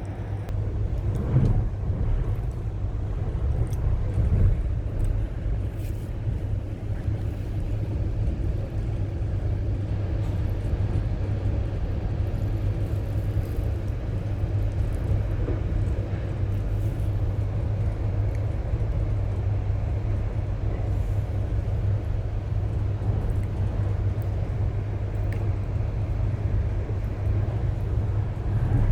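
Passenger train running steadily, heard as an even low rumble from inside the carriage.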